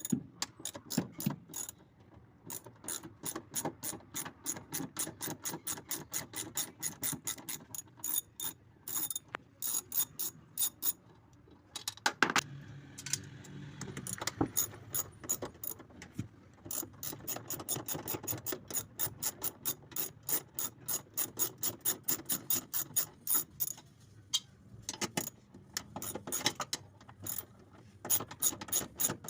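Hand socket ratchet clicking in quick runs as bolts are turned, with a short break and one louder knock about twelve seconds in.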